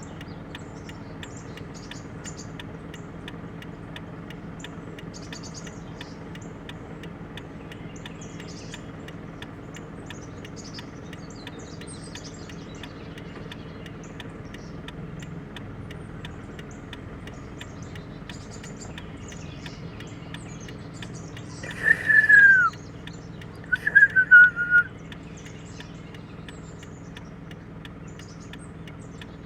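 Peafowl calling twice, loud whistled calls that fall in pitch: one single call, then a short broken run of falling notes. Underneath is a steady low hum, with faint chirps of small birds.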